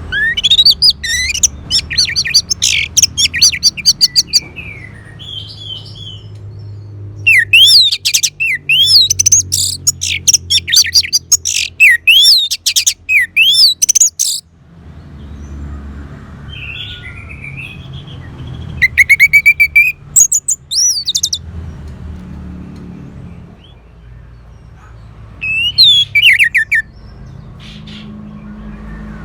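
Orange-headed thrush singing: four bursts of rapid, varied high whistled phrases with pauses between, over a faint low rumble.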